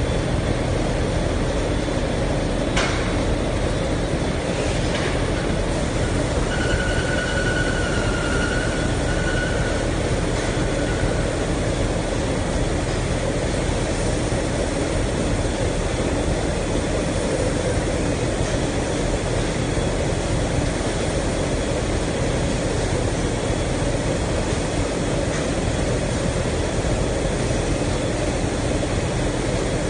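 Industrial conveyor washing and drying machine for metal parts running: a steady mechanical noise throughout. There are two knocks a few seconds in, and a thin high squeal lasts about four seconds soon after.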